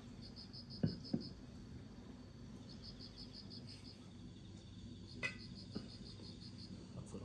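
Crickets chirping in short rapid trills, each about a second long and repeating every two to three seconds. A couple of light knocks come about a second in and again about five seconds in.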